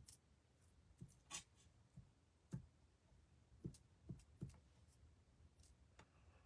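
Faint, irregular light taps and clicks, about eight or nine spread over several seconds, from dabbing little dots of liquid glue onto cardstock and handling the paper.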